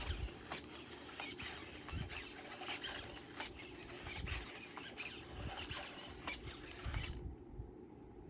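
Rapid, irregular scratching and clicking, with a few low thumps, that stops abruptly about seven seconds in.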